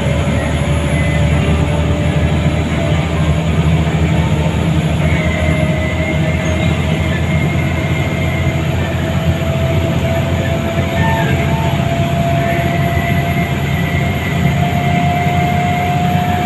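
Scania L94UA city bus heard from inside the cabin while driving on the freeway: steady engine and road rumble, with a whine that slowly rises in pitch.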